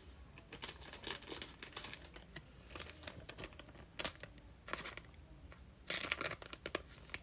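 A trading-card pack wrapper crinkling and tearing open, with the cards inside being handled: scattered small crackles and clicks, the densest burst about six seconds in.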